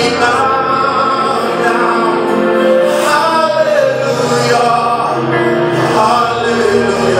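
Gospel choir singing a worship song in held, sustained notes over a steady low accompaniment.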